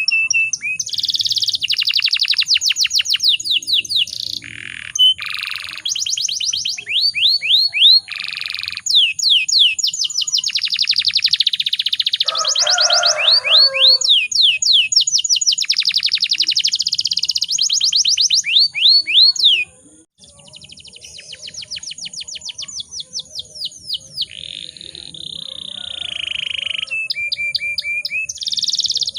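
Domestic canary singing a long song of rapid trills and rolled phrases, with fast repeated high notes. The song breaks off briefly about twenty seconds in, then resumes.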